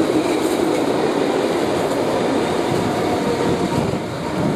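Loaded bogie oil tank wagons rolling past: a steady rumble of wheels on rail, with the last wagon going by near the end.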